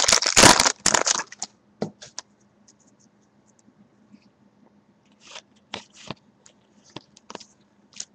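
A baseball card pack's wrapper being torn open, with a loud ripping in the first second. Scattered soft clicks and rustles of cards being handled and flicked through follow.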